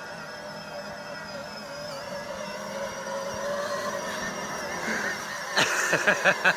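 Electric ride-on toy truck's motor and gearbox whining steadily as it drives, slowly growing louder. A burst of knocks and a child's voice come near the end.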